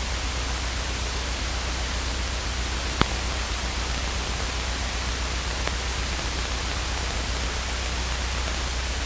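Steady static hiss from an aircraft radio and intercom audio feed, with a low hum underneath. One sharp click about three seconds in and a fainter one a little later.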